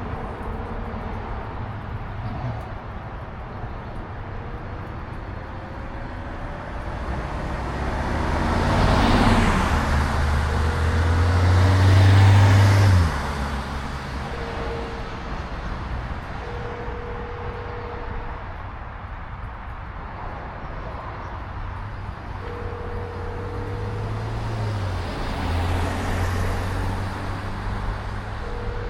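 Harley-Davidson Road Glide's V-twin engine running on the road with wind noise, building up louder and higher about eight seconds in, then dropping back suddenly around thirteen seconds as the throttle eases or it shifts. A few short steady tones come and go in the background.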